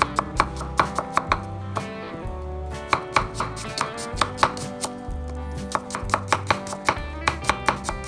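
Chef's knife chopping red onion on a wooden cutting board: a run of sharp knocks, two or three a second, with a brief pause about two seconds in. Background guitar music plays underneath.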